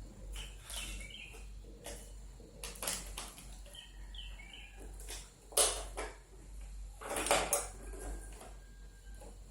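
Small metal tools clinking and scraping on a workbench in a string of irregular knocks, the loudest about five and a half and seven seconds in, as a new 4.7 µF 450 V capacitor is fitted to a power board.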